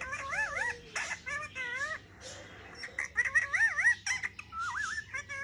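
Parrot chattering in quick warbling whistles that swoop up and down in pitch, pausing briefly about halfway through before starting again.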